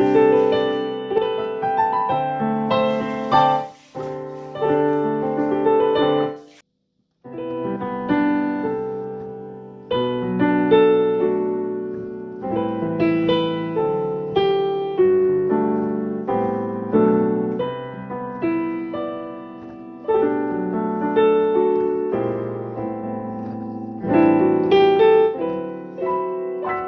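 Background piano music: a solo piano playing a gentle melody with chords, notes struck and left to fade. It breaks off to silence for under a second about six and a half seconds in, then resumes.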